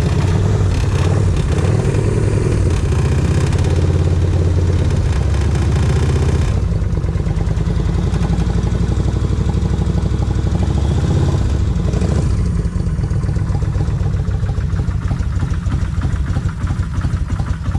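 A 1600 motorcycle engine running just after a cold start. It runs faster for about the first six and a half seconds, then drops to a lower idle, and turns uneven near the end.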